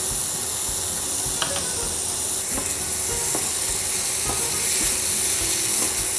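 Crumbled paneer sizzling in freshly added ghee in a nonstick pan, stirred and scraped with a spatula: the paneer is being roasted in the ghee, the stage after its water has dried off.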